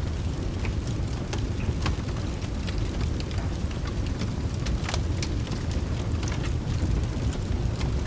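Steady rain with a deep, constant rumble under it, and scattered sharp crackles and pops from a wood fire in a fireplace.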